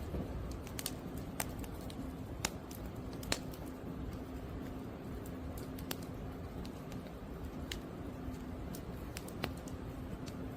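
Firewood burning, crackling with irregular sharp pops over a steady low rumble of the flames.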